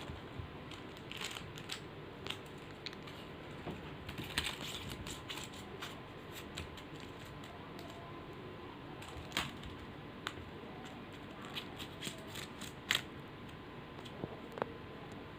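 Irregular light clicks and taps, scattered and uneven, the sharpest a few seconds apart, over a faint steady hiss and a thin steady hum.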